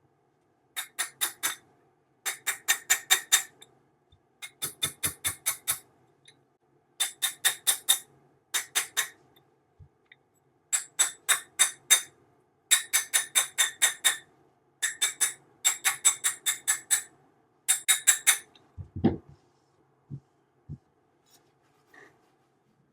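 Metallic ratchet clicking in about a dozen quick runs of four to eight clicks each, at roughly six clicks a second. Near the end come a low thump and two small knocks.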